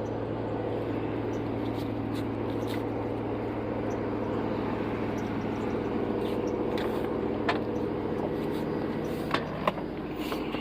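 Truck engine idling steadily, with a few light clicks about nine and a half seconds in.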